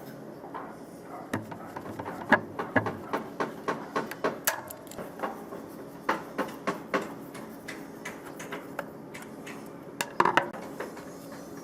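Irregular metallic clinks and knocks of small metal parts and hand tools being handled, likely the old planer's parts during disassembly. The sharp taps come several a second through the first half, with a louder cluster of knocks about ten seconds in.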